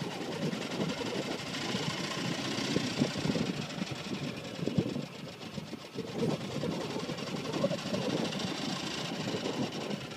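A vehicle engine idling with a fast, even pulse.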